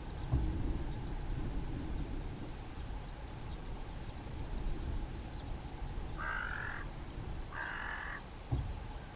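A crow cawing twice, two harsh drawn-out caws about a second apart, over a steady low rumble.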